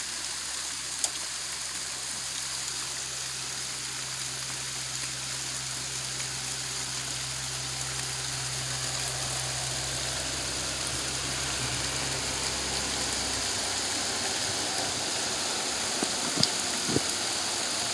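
Steady rain falling, an even hiss, over a low steady hum that cuts off about thirteen seconds in; a couple of faint taps near the end.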